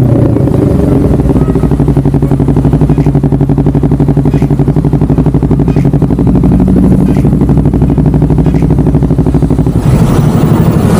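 Honda CBR250RR parallel-twin engine running through a DST aftermarket exhaust at a steady engine speed, with a slight rise in pitch midway and the sound getting busier and noisier near the end.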